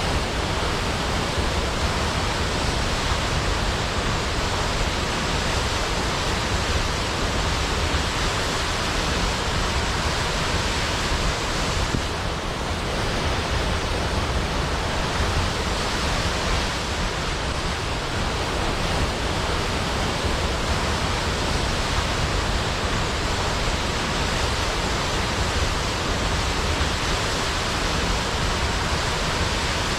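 Large waterfall pouring steadily: a dense, even rush of falling water with no breaks.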